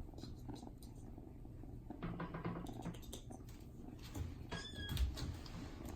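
Black kitten purring close to the microphone, a steady low rumble, with rustles of handling. About four and a half seconds in there is a short high-pitched squeak, and a soft bump follows near five seconds.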